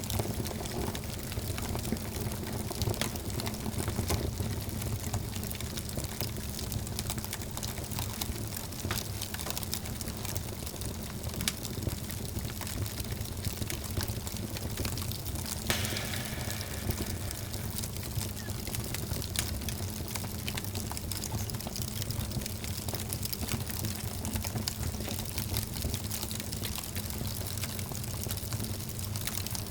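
Wood fire burning in a fireplace: a steady low rumble of the flames with frequent small crackles and pops, and one louder snap about halfway through.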